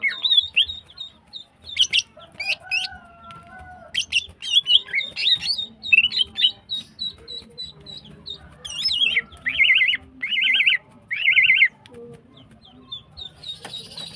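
Female green leafbird (cucak ijo) in breeding condition calling: a steady run of short, high repeated notes, broken by quick chattering phrases, with three fast buzzy trills a little past the middle.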